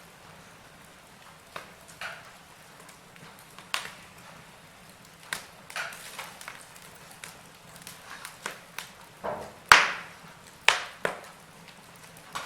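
Wood fire in a fireplace crackling: irregular snaps and pops over a faint steady hiss, with two louder pops near the end.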